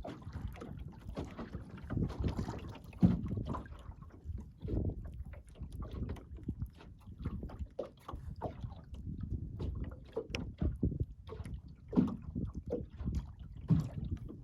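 Water slapping and gurgling against the hull of a small Chesapeake Light Craft Skerry sail-and-oar dinghy under way, with irregular knocks from the boat.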